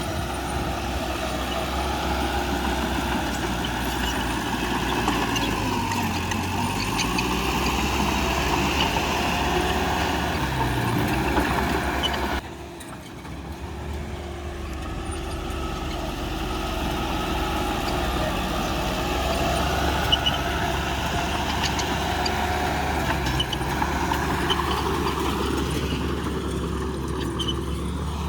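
Diesel engines of heavy earthmoving machinery running and working, their pitch rising and falling with the load. The sound drops out suddenly about halfway through and then resumes.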